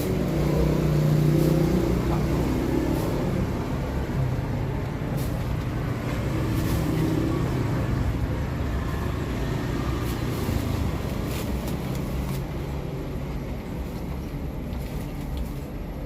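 Motor vehicle engines running on the road, loudest about a second in and easing off afterwards.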